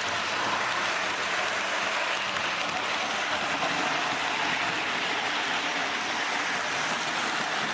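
Lionel O gauge model train (MPC-era D&H U36C diesel locomotives pulling a boxcar) running around the layout: a steady, even rolling noise of the motor and metal wheels on the track, with no clear clicks.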